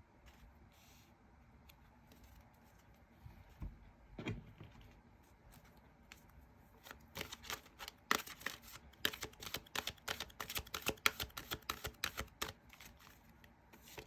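Tarot cards being shuffled by hand: a rapid run of crisp card flicks through the middle and latter part, after a soft knock or two of the deck a few seconds in.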